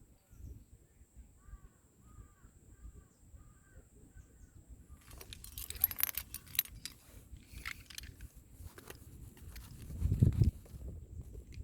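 Metal climbing gear, carabiners and quickdraws on a harness, jangling and clinking in a cluster of sharp clicks through the middle, with a short low thump near the end. A bird calls repeatedly in the first few seconds.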